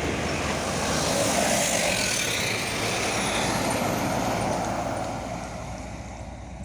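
A heavy truck passing at speed, its engine and tyre noise fading away over the last couple of seconds as it moves off.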